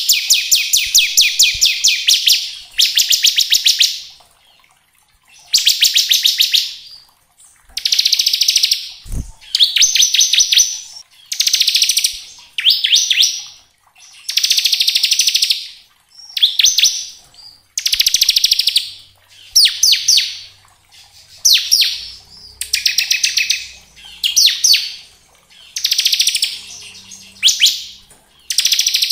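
Bar-winged prinia (ciblek) singing its 'ngebren' song: repeated bursts of very fast, rattling high trills, each lasting one to two seconds with short pauses between. A single low thump comes about nine seconds in.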